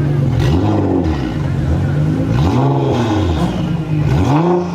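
Nissan GT-R R35's twin-turbo V6 on straight-pipe exhaust, blipped three times from idle; each rev climbs and falls back to idle.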